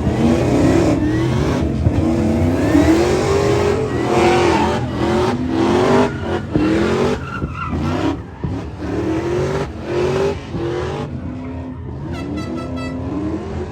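Car engine revving over and over, its pitch climbing and dropping back about once a second.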